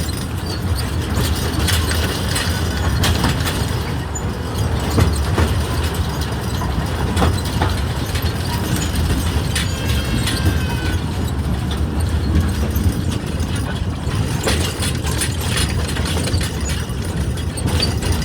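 Small park ride train running along its track, heard from on board: a steady low rumble with scattered clicks and knocks of the wheels and cars.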